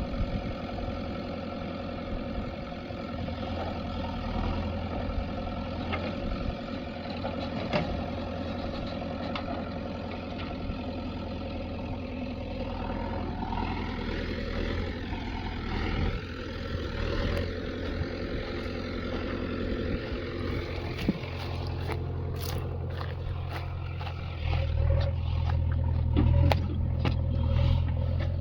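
Diesel engines of a JCB 3DX backhoe loader and tractor running steadily while mud is loaded. Near the end the engine gets heavier and louder, with a string of sharp clattering knocks.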